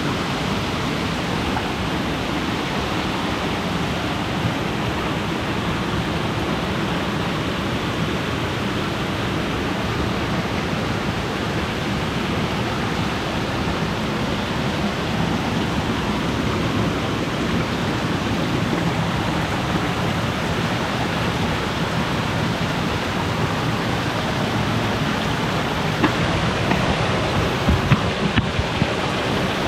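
Steady rushing of a mountain creek and its waterfalls, with a few sharp knocks near the end.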